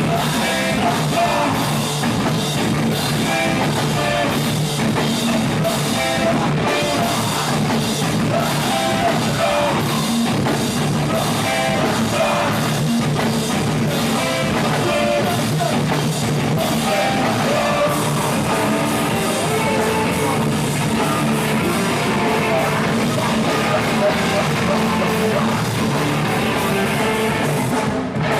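Live rock band playing loudly, with drum kit and guitars.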